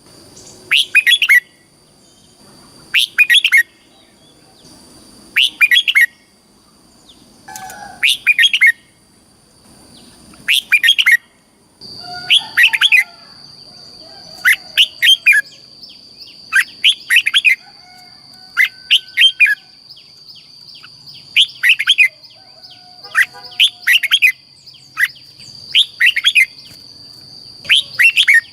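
Red-whiskered bulbul singing short, repeated song phrases, about one every two seconds. A steady high-pitched whine runs beneath it and grows stronger about halfway through.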